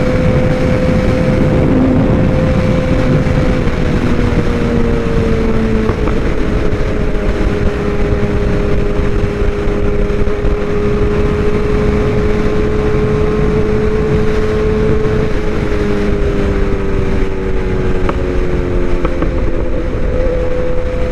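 Suzuki GSX-R750's inline-four running at a steady cruise with wind rushing over the microphone. The engine note drops a little a few seconds in, eases lower again later on, and picks back up near the end as the throttle is rolled off and back on.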